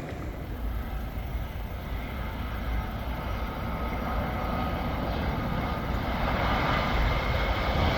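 Airbus A330 jet engines running: a deep rumble with a steady high whine, growing gradually louder.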